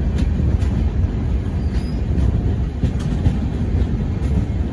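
Passenger express train running through a station without stopping, heard from beside the coach: a steady low rumble of wheels on rail with a few scattered clicks.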